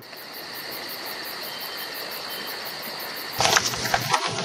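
Jungle ambience: a steady insect chirr with a high, even pulsing, joined by louder, busier calls about three and a half seconds in.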